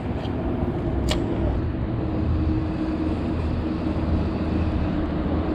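Steady rumble of road traffic, growing slightly louder, with one sharp click about a second in.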